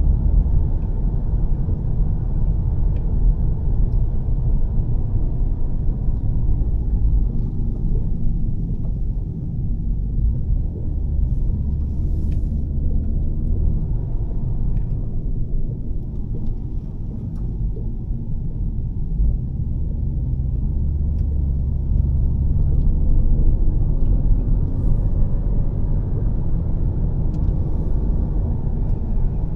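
Steady low rumble of a 2013 Volvo S60 T6's turbocharged straight-six and Heico aftermarket exhaust while driving, mixed with road noise. It eases off somewhat around the middle and builds again later.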